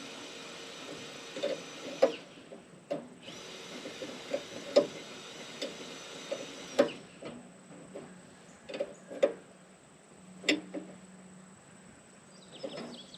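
Irregular knocks and clicks of hand work with tools and metal parts, a dozen or so sharp ones spaced unevenly, the loudest about two, five, seven and ten seconds in.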